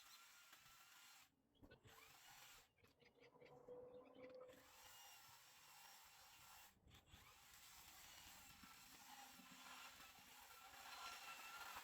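Near silence: faint hiss with a few brief dropouts.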